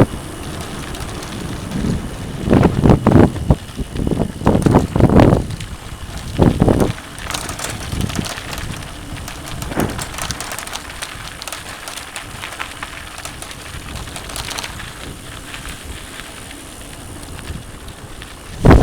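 Mountain bike rolling over a rough dirt trail, with wind on the microphone. There are clattering jolts from the bike over bumps in the first seven seconds, then a steadier rolling rumble.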